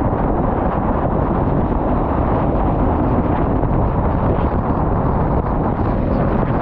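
Wind buffeting the microphone: a steady, loud low rumble with no clear pitch.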